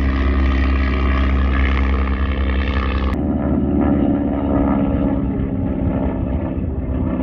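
An engine running steadily at a constant speed, with a sudden change in its tone about three seconds in where the recording jumps.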